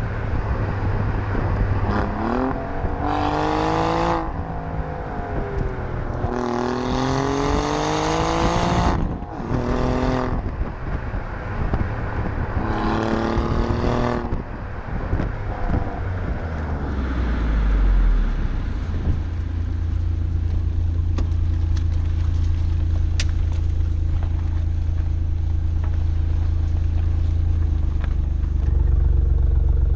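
Alfa Romeo Giulia Quadrifoglio's twin-turbo V6 revved through its exhaust: three blips, the pitch rising and falling each time. It then settles into a steady idle, a little louder near the end.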